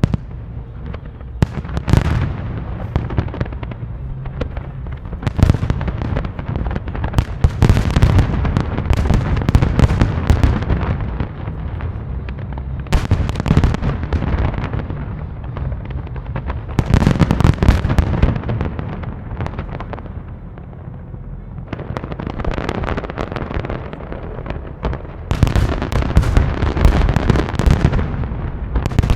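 Large aerial fireworks display: dense volleys of booming shell bursts and crackling reports in waves, with brief lulls around the middle and again about two-thirds through, over a constant low rumble.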